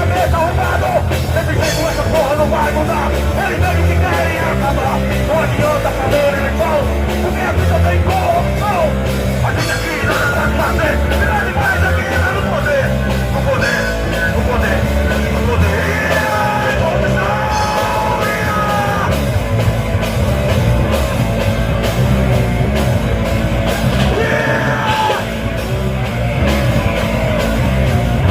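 Rock band playing live, a loud punk-style rock song with shouted singing over a driving low end.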